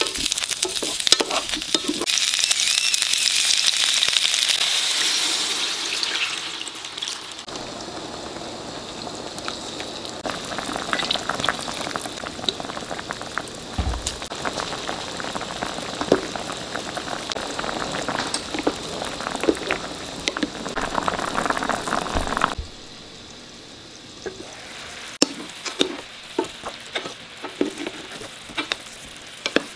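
Small whole potatoes sizzling in oil in a frying pan. About 7 seconds in, this gives way to soy-sauce braising liquid boiling hard around the potatoes, and in the last several seconds it turns to a quieter crackling bubble as the sauce reduces.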